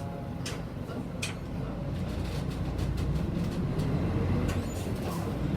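A city bus heard from inside the cabin: its engine and running noise are steady at first, then grow louder from about two seconds in, with a couple of sharp clicks or rattles in the first second and a half.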